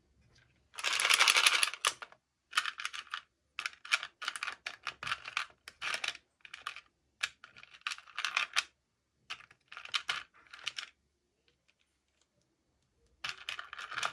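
Plastic toy packaging crinkling and rustling in short, irregular bursts, the loudest about a second in, as a doll is unboxed by hand.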